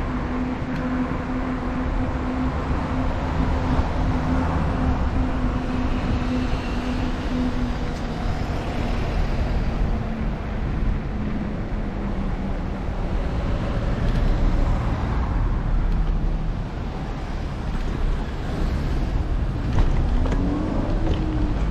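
Road noise heard from a moving bicycle: a low steady rumble of wind and road, with motor traffic going by. A vehicle's hum holds steady, then drops in pitch as it passes about halfway through, and another short pitch sweep comes near the end.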